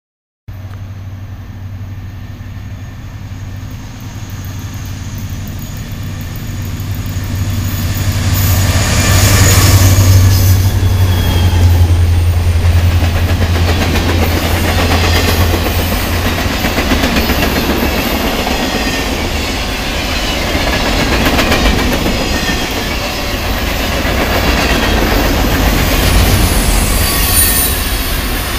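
Diesel-hauled freight train passing. The locomotive's engine drone builds to its loudest about ten seconds in and fades, then the railcars roll by with clickety-clack and a brief high wheel squeal near the end.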